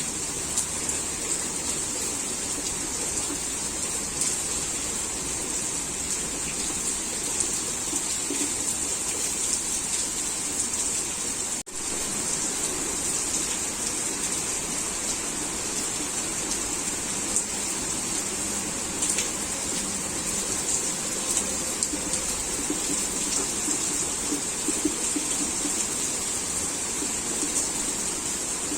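Heavy rain falling steadily, an even hiss with scattered faint drop ticks. A split-second gap in the sound about twelve seconds in.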